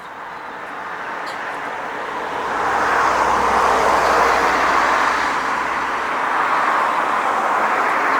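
A car driving past on the road, its tyre and engine noise building over the first few seconds, holding loud, then easing slightly before swelling again near the end.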